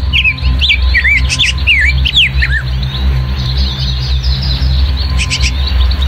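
Birds chirping over steady, loud, low-pitched background music. A rapid run of short chirps sweeps up and down in pitch for the first two and a half seconds, and a few more chirps come a little after five seconds.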